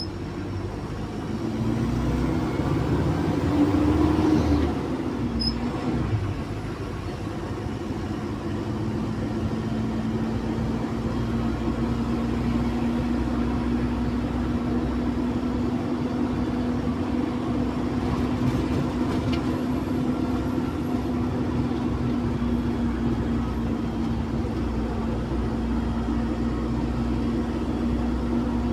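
Cummins diesel engine of a Zhongtong LCK6150D bus. Its revs climb for about four seconds and drop back about five seconds in, then it runs steadily at an even pitch.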